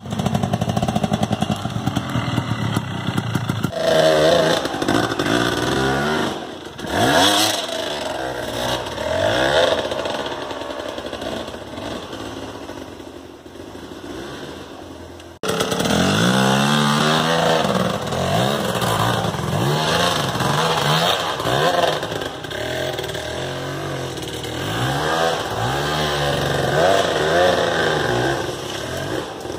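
Two-stroke engine revving up and down again and again, its pitch rising and falling in quick sweeps. The sound breaks off sharply about halfway through and comes straight back at full level.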